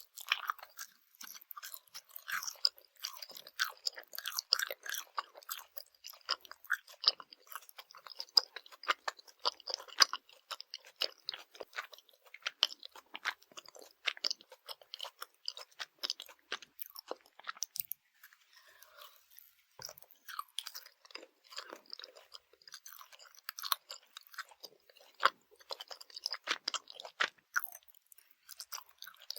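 Close-miked chewing of Swedish jelly candy: a dense run of small crunching and sticky clicking mouth sounds, easing off briefly about two-thirds of the way through.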